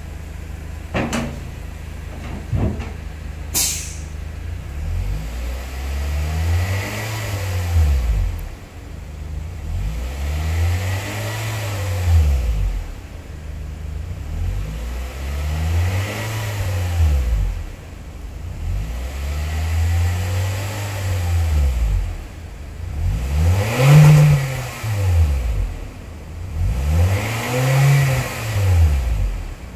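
An engine idling steadily, with a few clicks early on, then revved up and let fall back again and again, about once every four seconds. The last few revs are louder.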